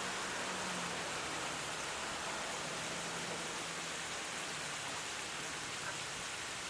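Steady, even outdoor hiss with a faint low hum underneath, and no distinct calls or knocks.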